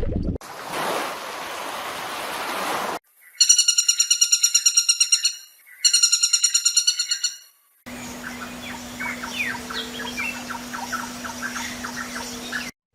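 A run of separate animal clips: first a short rushing noise, then two bursts of a rapid, buzzy, pulsed bird call, then many small birds chirping over a steady low hum.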